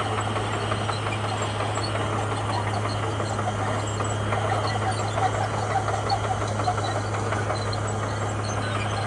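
Komatsu bulldozer's diesel engine running steadily under a constant load, with a steady low drone.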